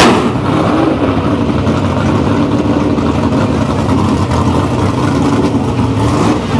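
Drag race car engine running steadily at low revs, with a rough, uneven note, after the hard acceleration has stopped.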